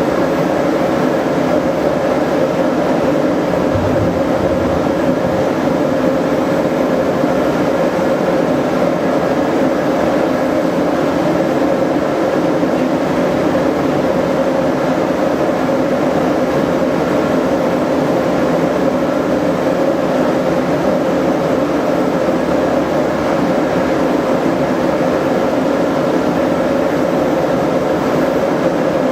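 A forge running steadily for heat treating a knife blade: a constant loud rush of burner or blower noise with a steady hum in it, switched on abruptly just before.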